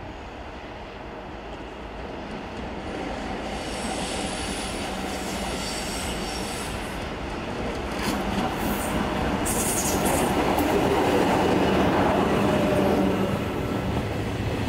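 Container freight train hauled by an EF66 electric locomotive approaching and passing, growing steadily louder, with rail clatter and high thin wheel squeal.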